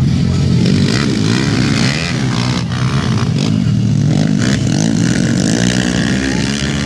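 Several motocross bikes' engines revving up and down as they race, their pitches overlapping and rising and falling repeatedly.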